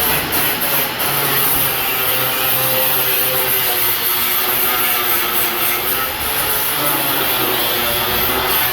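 Angle grinder running steadily against steel, a continuous loud grinding with a wavering whine underneath.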